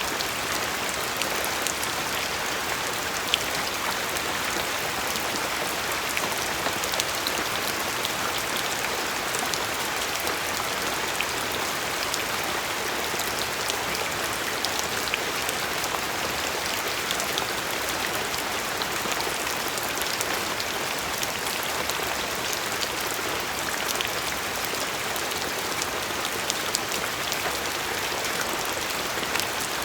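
Steady rainfall, an even hiss with many small droplet taps scattered through it.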